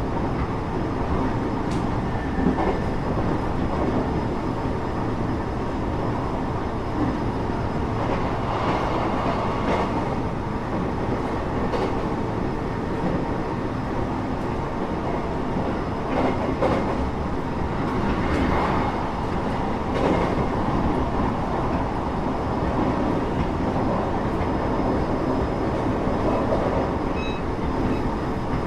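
Passenger train running, heard from inside the carriage: a steady rumble of wheels on rail with a few scattered knocks and rattles.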